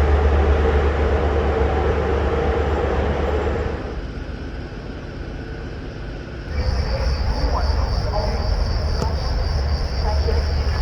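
Train running loudly through the station, with a steady tone in the noise, fading about four seconds in. About six and a half seconds in the sound changes abruptly to a steady high insect chirring over a low hum.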